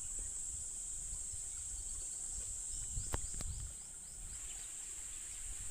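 Insects droning steadily at a high pitch over a low rumble, with two sharp clicks about three seconds in.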